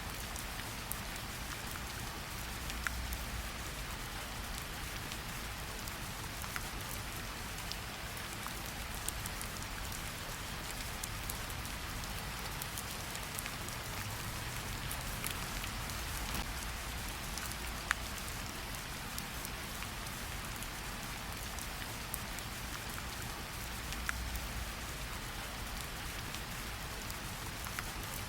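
Steady rainfall, an even hiss with scattered sharper drop ticks, over a low rumble that swells a couple of times.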